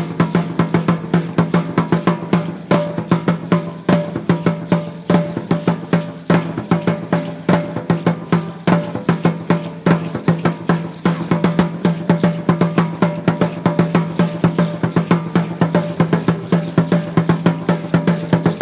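Danza azteca drumming: drums beating a fast, steady, unbroken rhythm for an Aztec-Chichimeca dance son.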